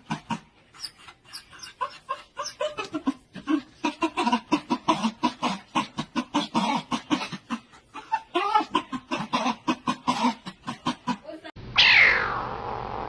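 An animal making rapid, short, repeated calls, several a second, for about eleven seconds. Near the end comes one loud, long meow from a cat, falling in pitch.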